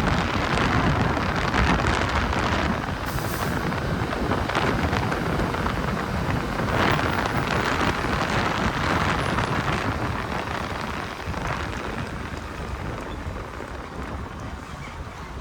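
Steady rushing noise from a moving motorbike, with wind on the microphone over engine and traffic rumble. It gets quieter over the last few seconds.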